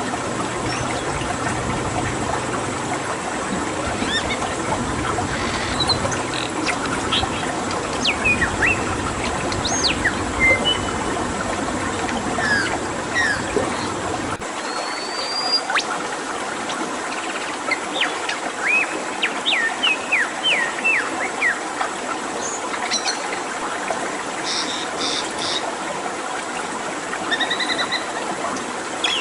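Many wild birds calling: short chirps, quick whistled sweeps and a few glides, over a steady rush of flowing water. About halfway through, the deep low part of the water sound drops away.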